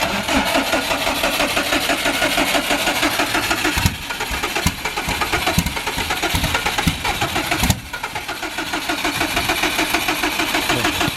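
Car engine being cranked over by its starter in three long spells, with brief breaks about four and about eight seconds in.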